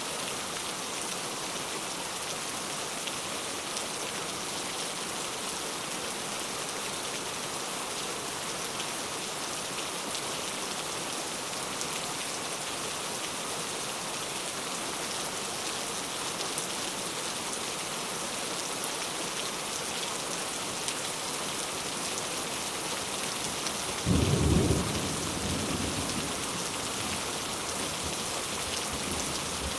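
Steady heavy rain falling, with one loud thunderclap near the end that rumbles away over a few seconds.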